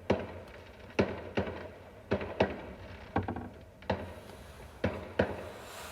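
About ten sharp bangs at uneven intervals, each with a short echoing tail.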